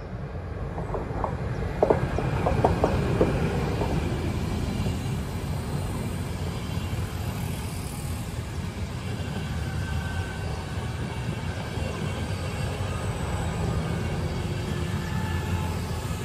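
A train running past close by: a steady rumble of wheels on the rails, with a cluster of sharp clacks about two seconds in.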